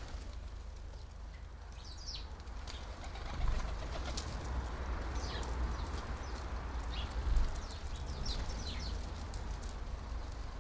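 House sparrows chirping: short high chirps come every second or so, over a steady low rumble.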